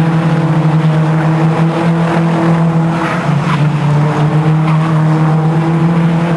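Racing car engine running hard at steady, high revs, with a brief dip about three seconds in.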